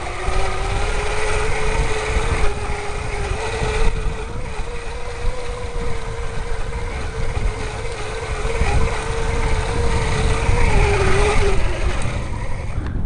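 Electric bike motor whining at a steady pitch under power, over wind rumbling on the microphone. The whine wavers and cuts out shortly before the end, leaving the wind.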